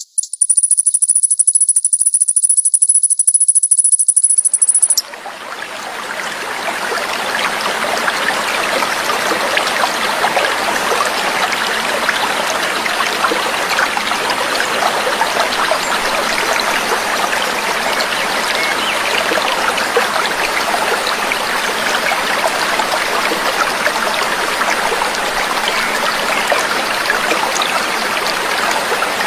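A high, buzzing bird trill for about the first five seconds, then it stops and the sound of trickling, splashing water fades in and runs on steadily.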